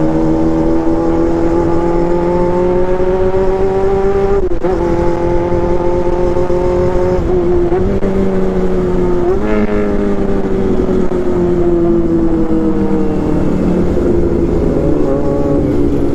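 Honda CB400's four-cylinder four-stroke engine running hard under way, its note climbing steadily with brief breaks at gear changes about four and a half and seven seconds in. After about nine and a half seconds the pitch sinks slowly as the bike eases off, over a low wind rumble.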